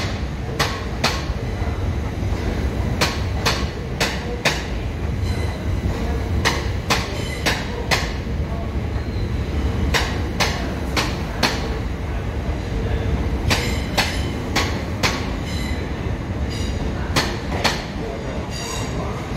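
Class 377 Electrostar electric multiple unit departing past at low speed: a steady low rumble broken by a run of sharp, irregular clicks as its wheels pass over the rail joints, with a brief thin wheel squeal near the end.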